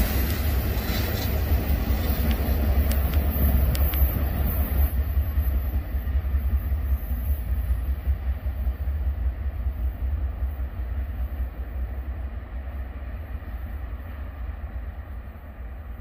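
A train rolling along the main line, a steady low rumble with wheel-on-rail noise, a few sharp clicks about three seconds in, fading gradually as it moves away.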